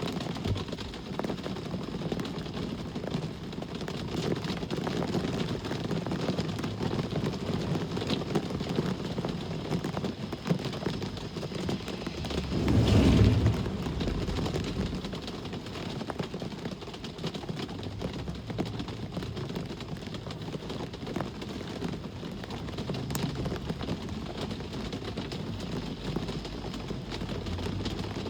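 Steady rain with traffic in the background; about twelve seconds in, a vehicle passes close, swelling and fading over a couple of seconds.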